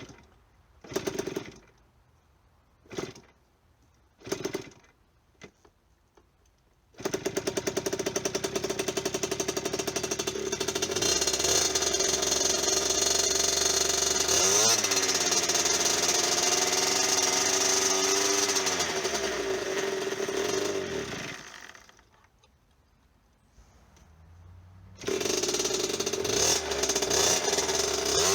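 1998 KTM 50's small two-stroke engine being started: a few short sputters, then it catches about seven seconds in and runs with revs rising and falling. It dies a little after twenty seconds and fires up again a few seconds later; the engine won't stay running.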